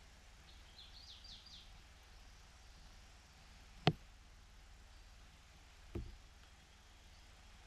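A quick run of faint, high bird chirps, then a sharp click about four seconds in and a duller knock two seconds later, over a low steady hum.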